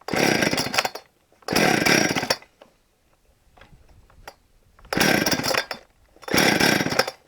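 Two-stroke chainsaw being pull-started: four hard pulls on the recoil starter, each about a second long, with the engine turning over and not catching. The saw is hard to start and the owner suspects it is flooded.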